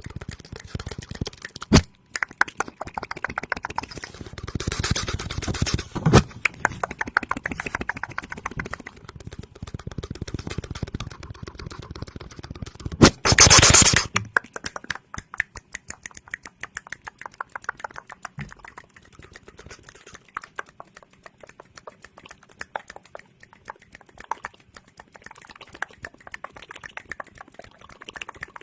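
ASMR mouth sounds close to the microphone: rapid wet clicks and pops, denser and louder in the first half. A single loud hiss of about a second comes around 13 seconds in.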